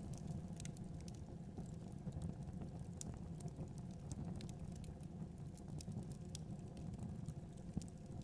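Wood fire crackling in a fireplace, with frequent small sharp pops and snaps over a steady low rumble.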